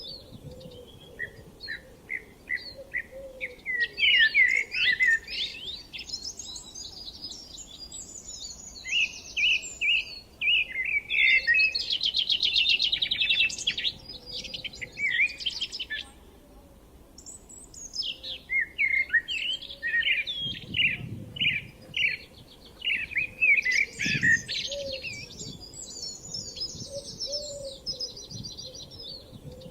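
Several wild songbirds singing, in bursts of quick high chirps and trills with short pauses between phrases.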